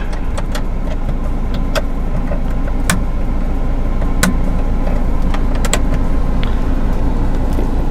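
Steady low hum of a car running, heard inside its cabin, with a scattered handful of sharp clicks.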